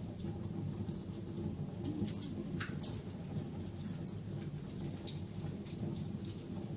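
Wood fire burning in a fireplace: irregular sharp crackles and pops over a steady low sound of burning.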